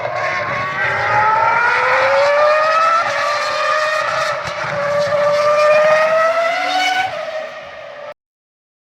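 Racing car engines running hard on the circuit, their pitch climbing slowly as they accelerate. The sound fades near the end and cuts off abruptly about eight seconds in.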